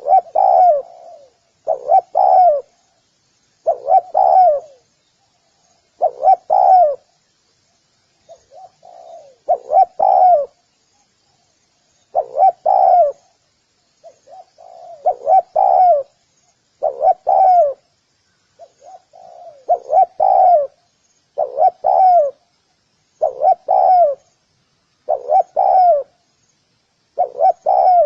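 Spotted dove cooing: short coo phrases repeated about every two seconds, each a few notes with a slight fall in pitch.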